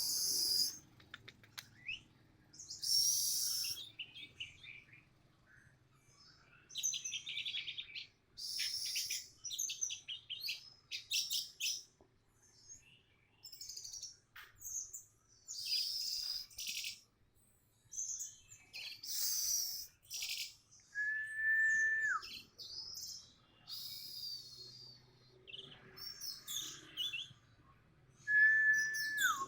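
Orange-headed thrush singing in bursts of rapid, varied high-pitched phrases with short pauses between them. Two held whistled notes that drop in pitch at their end come once past the middle and again near the end.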